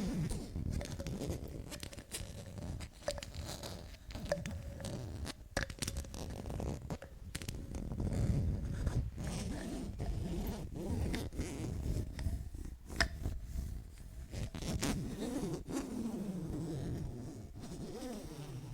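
Close-miked ASMR tapping and scratching: a dense, irregular run of small taps, clicks and scrapes with a low rumble, and a few squeaky rubbing glides near the end.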